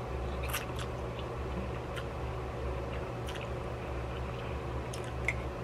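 Person chewing a mouthful of noodles, with a few short wet clicks and smacks spread through, over a steady low background hum.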